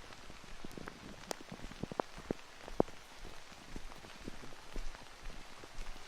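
Heavy rain falling: a steady hiss with individual drops splattering close by, several sharp ones in the first three seconds.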